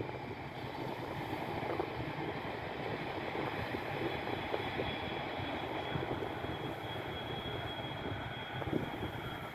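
Steady rumble of a jet aircraft's engines at a distance, mixed with wind buffeting the microphone. A faint high steady whine joins about halfway through.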